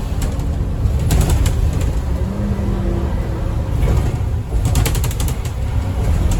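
Inside a 2009 Scania N230UD Optare Olympus double-decker bus under way: a steady low rumble of engine and road, with a brief whine for about a second near the middle and spells of rattling from the bodywork about a second in and again near the end.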